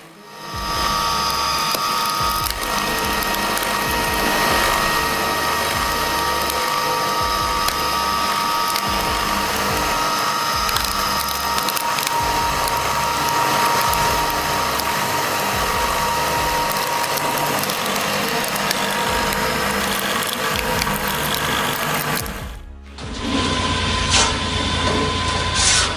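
Firewood processing machinery running: a steady mechanical whine with fast clicking and clattering. About three-quarters of the way through, the sound cuts off abruptly and a different machine sound takes over.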